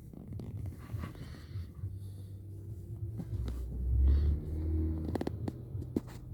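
Strong gusting wind buffeting the microphone as a low rumble, swelling to its loudest about four seconds in, with a few sharp knocks near the end.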